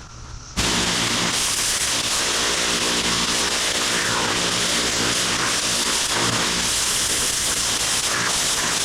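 Gas-engine pressure washer spraying: a loud, steady hiss of high-pressure water over the engine and pump's steady hum, starting suddenly about half a second in.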